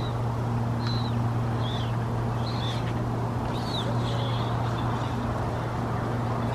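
Short, high bird calls, repeated about once a second over a steady low drone and outdoor background noise.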